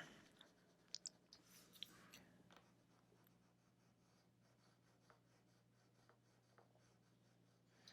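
Near silence, with a few faint taps and short strokes of a drawing tool in the first couple of seconds as part of the drawing is erased.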